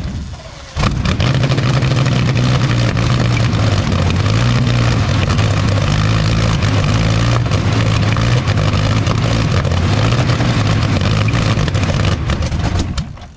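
Rolls-Royce Meteor V12 petrol engine running loud, its note wavering up and down as the revs vary. It dips for a moment just under a second in, picks up again, and cuts out near the end.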